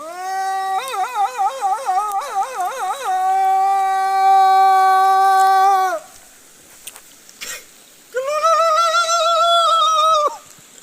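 A high voice singing long held notes: first a warbling, wavering line, then one long steady note that stops about six seconds in. After a short gap, a second, higher note with a slow waver is held for about two seconds.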